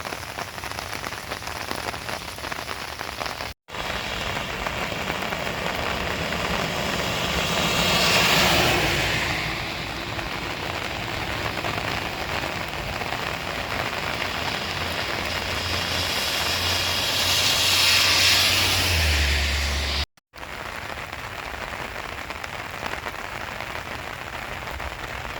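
Steady rain falling, an even hiss, with two louder swells of hiss about a third and three-quarters of the way through. The sound drops out abruptly for a moment twice.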